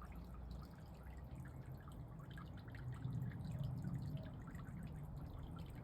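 Water trickling and dripping into a garden pond: a steady run of small irregular drips and splashes.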